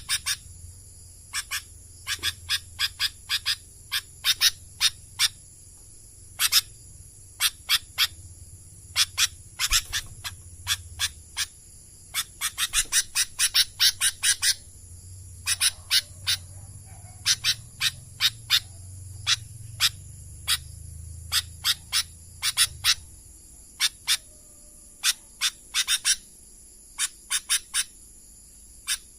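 Sooty-headed bulbul calling with short, sharp chirps, singly and in quick runs, over a steady high-pitched insect drone and a low hum that comes and goes.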